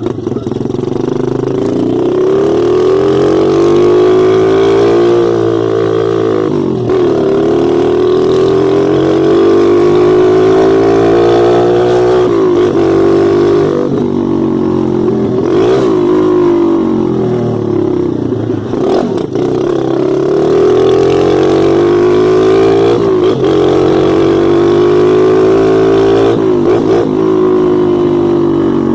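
Mini motorcycle engine running while ridden. Its pitch climbs and falls as the throttle is opened and eased off, dipping sharply about six times.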